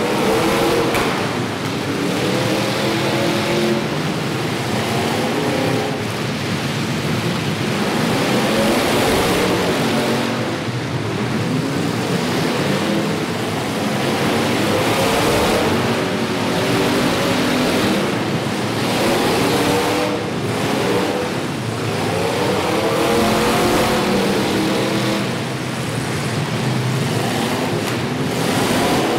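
Several demolition derby cars' engines revving at once, their pitches rising and falling and overlapping over a dense wash of engine and exhaust noise.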